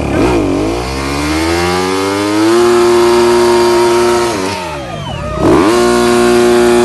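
Motocross bike engine revving hard. The pitch climbs to a steady high note and holds, drops away, then shoots back up and holds again before cutting off suddenly near the end.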